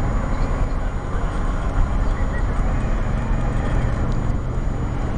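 A steady low rumble of a car engine running, with outdoor background noise.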